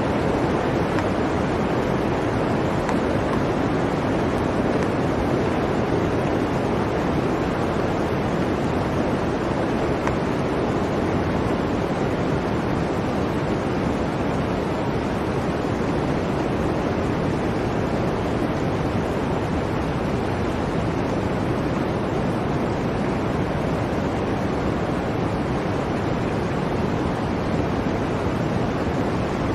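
Blizzard wind blowing steadily: an even, unbroken rush of noise with no gusts or breaks.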